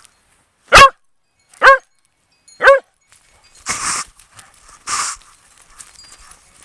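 Corgi barking three short, sharp times about a second apart, loud and close. Two softer rushing noises follow.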